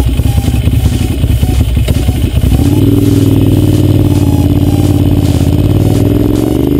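Ducati Monster 795's V-twin engine through an aftermarket Termignoni exhaust, heard from on the bike: an uneven, lumpy burble at first, then from about two and a half seconds in a steady pull under throttle with the pitch slowly climbing as the bike accelerates.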